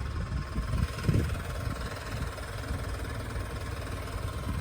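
Diesel forklift engine idling steadily, with a few low thumps in the first second or so.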